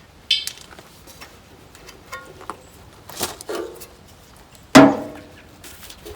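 Metal clinks and knocks from handling the small gas engine while its oil is checked, some ringing briefly, with one loud clank about five seconds in.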